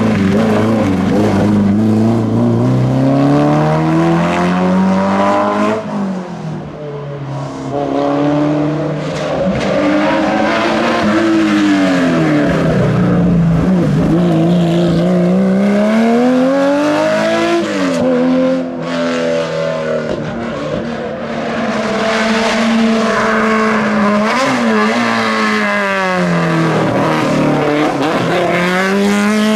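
Historic racing car engine at full throttle on a hillclimb, revving up and dropping back again and again as it accelerates, changes gear and lifts for corners.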